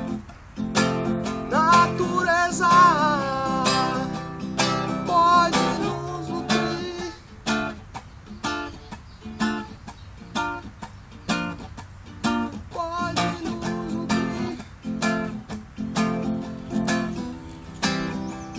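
Acoustic guitar strummed in a steady rhythm, an instrumental stretch of a song. A wavering melody line sounds over the strumming in the first few seconds.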